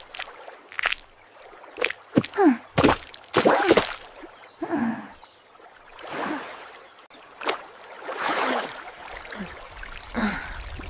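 Cartoon characters' short wordless vocal sounds, gasps and falling-pitch exclamations, between bursts of noisy splash-like sound effects.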